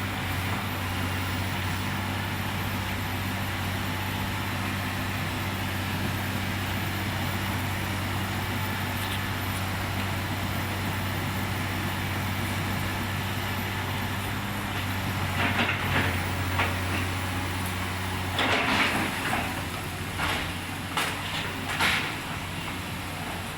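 Isuzu 6BG1 diesel engine in an excavator running steadily with a constant hum, with a few metallic clanks and knocks from about fifteen seconds in.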